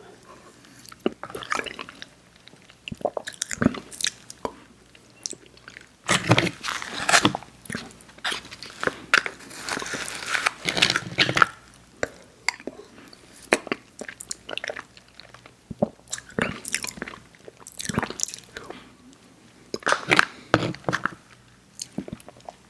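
Close-up mouth sounds of someone chewing soft, chewy sour candy: wet smacks and sticky clicks in irregular clusters.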